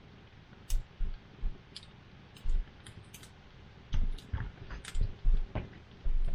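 Wood campfire crackling, with irregular sharp pops and snaps, some with a low thump, coming in a cluster in the second half.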